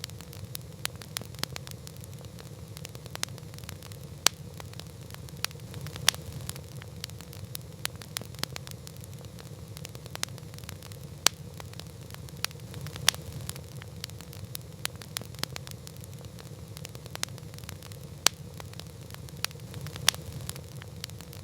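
Campfire crackling: burning wood gives frequent sharp pops and snaps at irregular intervals over a steady low rumble, with a few louder snaps scattered through.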